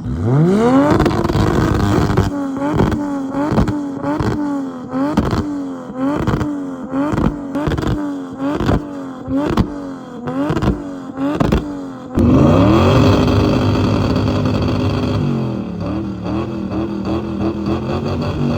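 Car engine held at high revs with sharp cuts and cracks about twice a second for roughly the first twelve seconds. Then a different engine revs up smoothly, holds high, drops to a lower steady note and falls away near the end.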